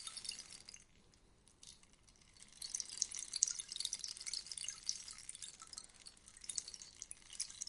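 Rainstick trickling: a dense, rain-like patter that dies away about a second in, then starts again after about two and a half seconds as the stick is tipped once more, and runs on unevenly.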